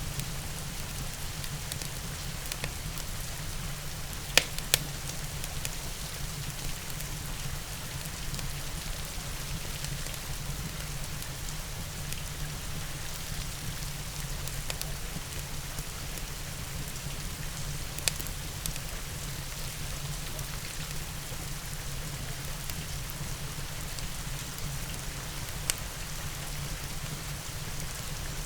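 Steady rain falling, an even hiss, with a few sharp pops and crackles from a wood fire about four seconds in, around eighteen seconds and again near the end.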